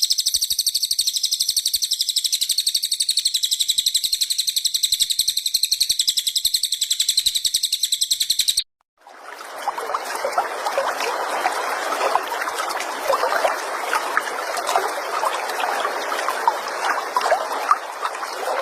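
Recorded songbird song used as tutor material: first a fast, very regular high trill held for about eight seconds, then an abrupt cut to a dense, lower chattering full of short chirps.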